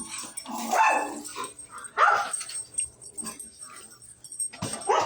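A dog barking three short times, a second or two apart.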